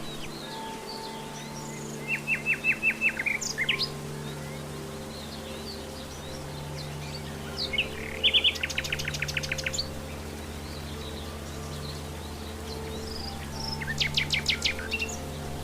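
Common nightingale singing three phrases. The first is a run of about eight evenly repeated notes ending in a quick rising whistle; the next two, a few seconds apart, are fast rapid-fire trills. Other birds chirp faintly in the background.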